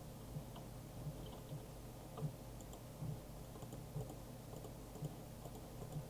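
A small mechanism running: a steady low hum with soft, uneven knocks about once a second and faint light clicks.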